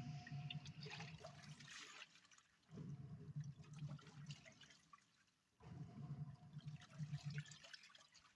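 Portable top-loading washing machine agitating a load: a motor hum with sloshing water in runs of about two seconds, each broken by a short pause as the wash action stops and reverses.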